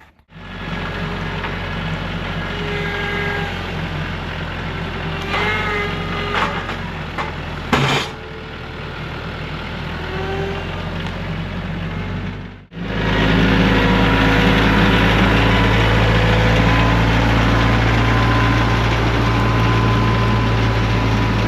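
Tractor engine running steadily, with a few short knocks partway through. After a sudden break about two-thirds of the way in, the engine is louder.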